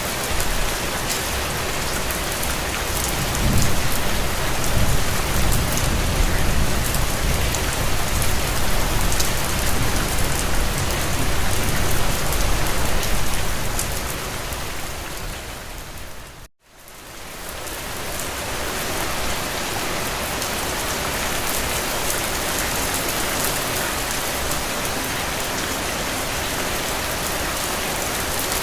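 Steady rain falling on a window, with a low rumble under it through the first half. About halfway through, the sound fades to silence for a moment and then fades back in.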